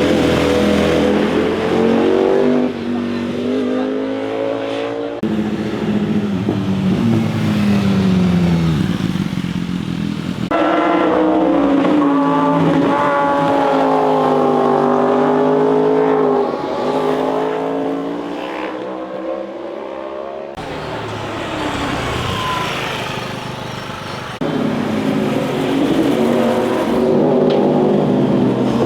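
Motorcycle engines revving and accelerating as bikes pass one after another, their pitch gliding up and down with throttle and gear changes. The sound switches abruptly between bikes several times.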